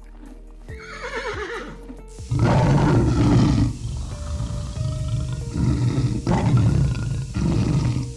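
A big cat growling and roaring in three rough bouts, the first starting about two seconds in, over steady background music. Just before, a horse's whinny falls away.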